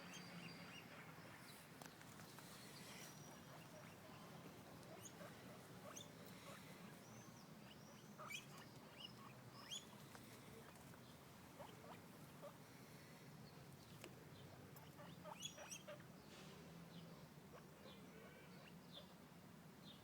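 Guinea pigs squeaking and chattering faintly: many short, high squeaks scattered throughout, a few of them louder in the middle.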